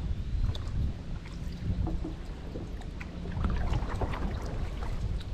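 Kayak paddling: the paddle blades dipping and splashing, with water dripping off them in small irregular patters, over a low rumble of wind on the microphone.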